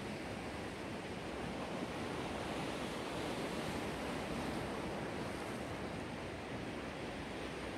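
Sea waves washing onto the shore: a steady rush of surf that swells a little in the middle.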